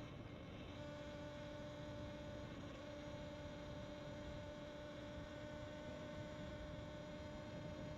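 A steady, unchanging hum of several tones over a faint rushing noise.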